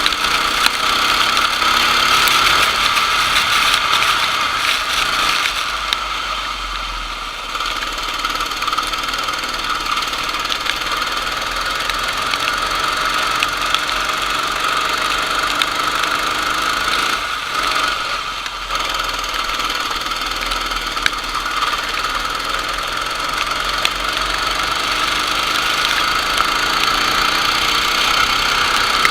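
Kart engine running steadily at high revs, with its sound dipping briefly about seven seconds in and again near eighteen seconds.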